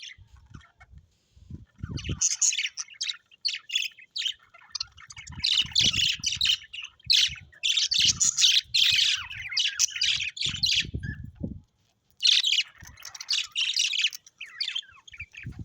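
Parrots chattering in rapid high chirps and squawks that come in bursts a few seconds long, with dull low thumps among them.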